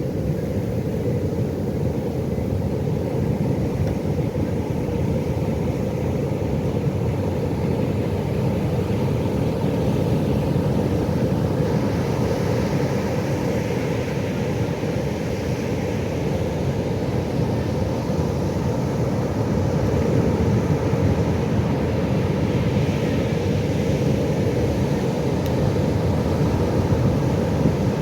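Pacific Ocean surf: a steady low noise of waves that swells louder twice as waves wash in.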